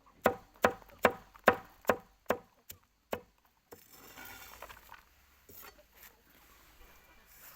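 Rhythmic chopping: about eight sharp strikes in a steady beat, each with a short ringing note, that stop about three seconds in; a faint rustle follows.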